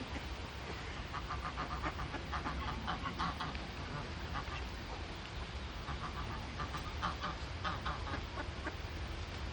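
Waterfowl calling: two clusters of short, rapid, quack-like calls, over a steady low background rumble.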